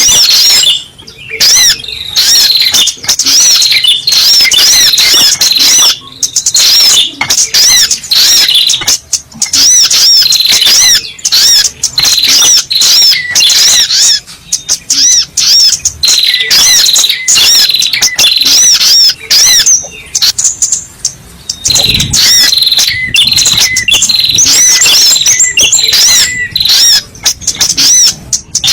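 Spiderhunter (sogok ontong) calling: long runs of rapid, sharp, high-pitched chirps repeated many times a second, broken by short pauses and starting up again.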